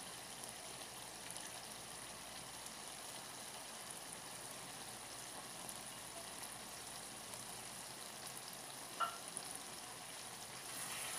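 Eggplant and yoghurt curry sizzling faintly in oil in the pan, the yoghurt's water cooked off. One brief sharper sound about nine seconds in.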